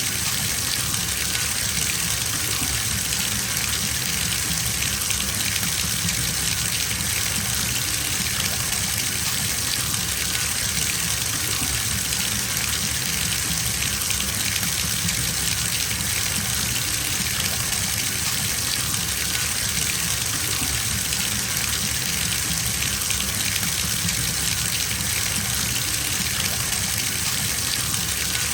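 Bathtub filling from a running tap, a steady gush of water into the tub.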